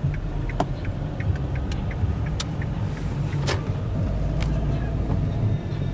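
Car running at low speed, heard from inside the cabin: a steady low rumble with scattered light clicks and ticks.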